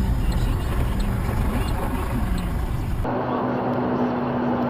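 Vehicle driving noise picked up by dashcams: low engine and road rumble, then about three seconds in an abrupt cut to another recording with road noise and a steady droning hum.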